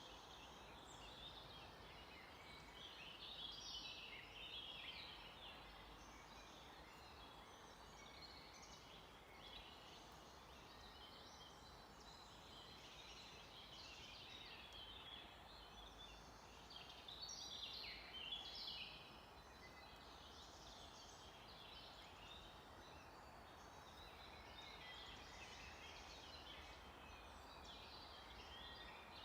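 Faint chorus of several songbirds singing and calling in forest, with livelier bursts of song a few seconds in and again around the middle.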